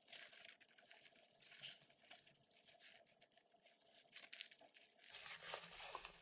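Faint rustling and crinkling of paper tissue, with small irregular scratchy clicks, as small fan parts such as a washer are wiped clean.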